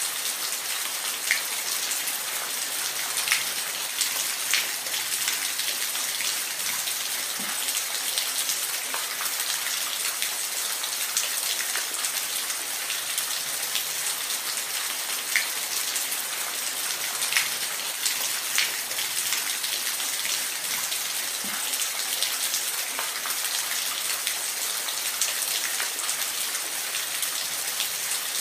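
Steady hiss of falling water, a waterfall ambience for sleep, with scattered sharp drips or splashes every second or two.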